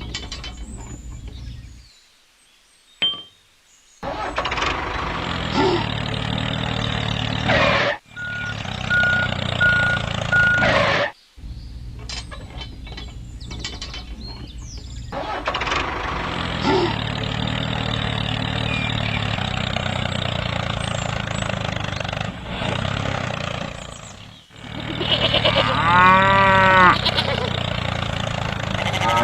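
Small electric motor of a DIY miniature toy tractor running with a steady hum, cut off and restarting in several separate takes. A short steady beep sounds about eight seconds in. Near the end comes a run of quick rising-and-falling animal cries.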